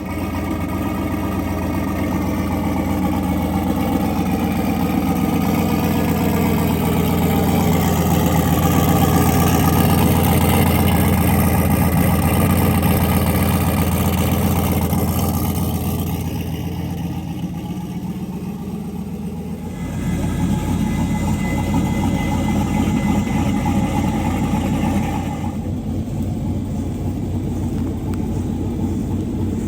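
Turbocharged 4.8-litre V8 of a mega truck running steadily. The sound changes abruptly twice in the second half, as at cuts between shots.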